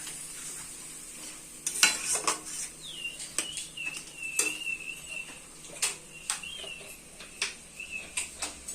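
Metal utensils knocking and clinking against a cooking pot in a run of sharp strikes, the loudest about two seconds in. A thin, high, wavering tone sounds in the background from about three seconds in.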